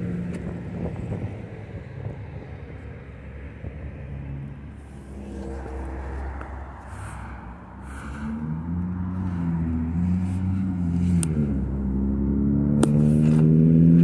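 A motor vehicle engine running under a low rumble. Its pitch wavers from about halfway through and then climbs steadily near the end, as when the engine speeds up. A few sharp knocks sound over it.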